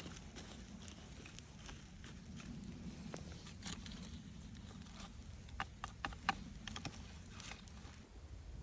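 Campfire crackling: scattered sharp pops and snaps, bunched together about two-thirds of the way through, over a low steady rumble.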